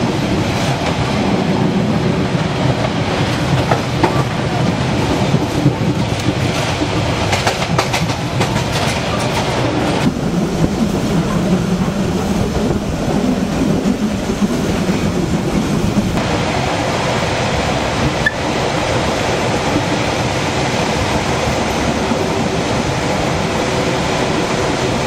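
Running noise of a passenger train heard from on board: wheels rumbling steadily along the rails, with a stretch of sharper clicking about a third of the way in.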